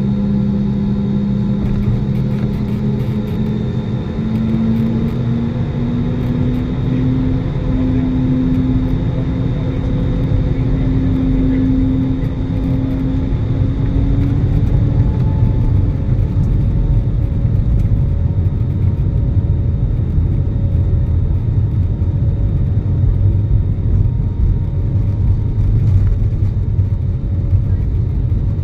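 Cabin sound of an Airbus A320neo with CFM LEAP-1A engines accelerating on its takeoff roll: a steady, loud engine and runway rumble that builds slightly, with a tone that slowly climbs in pitch over the first fifteen seconds and then fades out.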